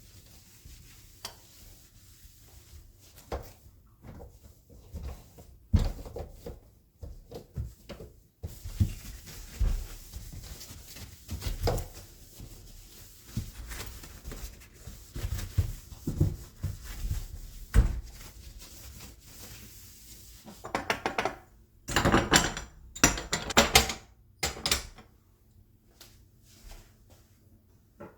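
Household objects being handled: scattered knocks, clicks and rubbing, with a denser, louder stretch of clattering and rustling about three quarters of the way through.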